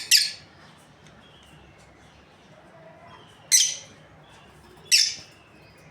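Lovebirds calling: three loud, harsh shrieks, one right at the start, one about three and a half seconds in and one about five seconds in, over faint chirping.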